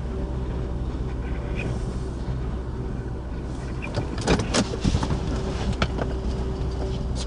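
Steady low rumble of a vehicle running, with several sharp clicks and knocks about four to six seconds in.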